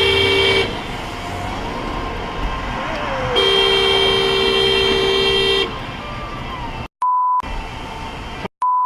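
Car horn held down in two long blasts, the second starting about three and a half seconds in, over road noise. Near the end, two short electronic beeps broken by brief dropouts.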